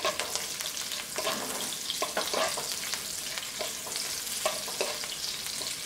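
Curry leaves and split green chilies sizzling steadily in hot ghee and oil in a nonstick wok as their moisture cooks off, with a wooden spatula giving several soft scrapes and taps against the pan as they are stirred.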